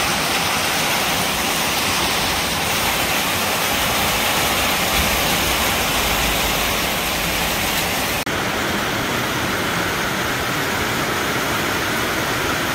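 Heavy rain pouring down in a dense, steady hiss. There is a brief drop-out about eight seconds in, after which the rain carries on with a slightly different tone.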